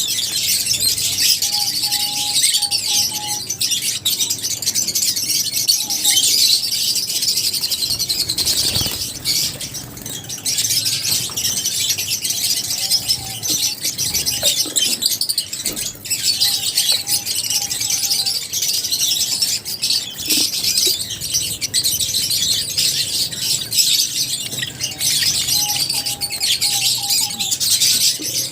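A flock of lovebirds chattering continuously, with many high-pitched chirps overlapping. A short, lower repeated note recurs every few seconds.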